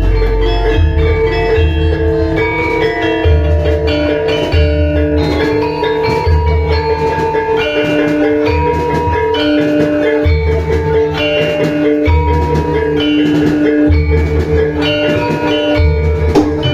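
Javanese gamelan music: metallophones ringing held notes over a steady low beat.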